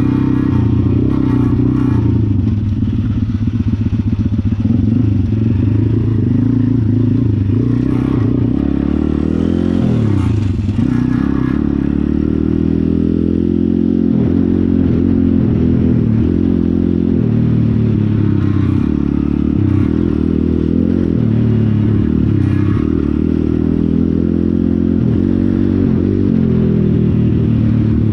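Pit bike engine running steadily, its revs rising and falling, with a brief drop and pick-up in engine speed about ten seconds in.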